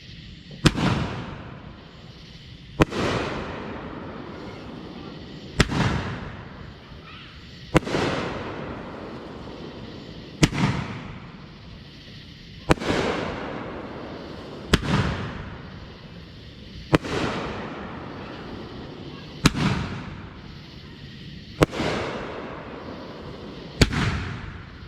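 A 500-gram 3-inch NOAB consumer firework (SFX Galactic Rings) firing shells one after another, about every two seconds: each a sharp bang followed by a fading tail.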